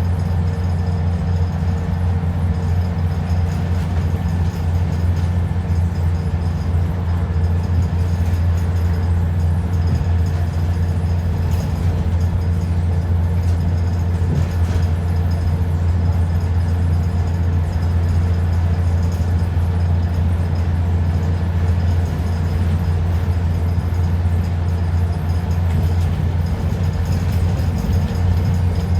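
ADL Enviro 400 double-decker bus's diesel engine running at a steady pace, heard from inside the bus. It is a deep, even hum with a few faint steady whining tones over it.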